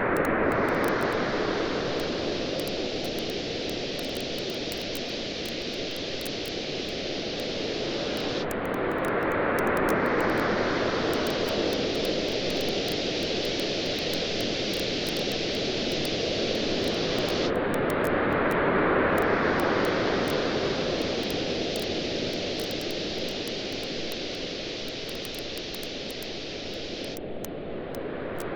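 Ocean surf washing steadily, with a wave swelling up about every nine or ten seconds, three times, under the frequent sharp crackles and pops of a wood campfire.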